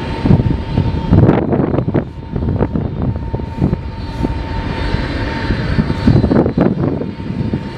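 Aircraft engines running with a steady high whine over a rough low rumble that surges unevenly, with wind buffeting the microphone.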